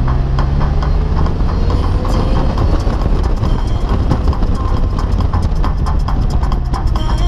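Polaris Slingshot running at road speed, its engine rumble mixed with heavy wind and road noise, with the engine note rising slightly in the first few seconds.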